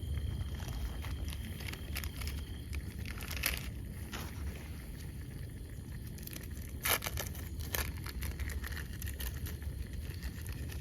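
A steady low rumble with a few scattered sharp crackles and clicks, the loudest about seven seconds in.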